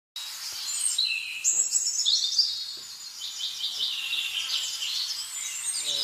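Birds singing and chirping, a dense chorus of overlapping high chirps and trills that runs without a break.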